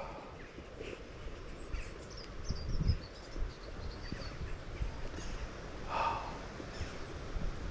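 Outdoor ambience: wind rumbling on the microphone with faint high chirps, and two short breathy snorts, one at the start and one about six seconds in.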